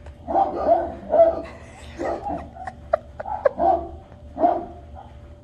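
Recorded dog barks played from an Amazon Alexa smart speaker's barking skill: a string of about six short barks.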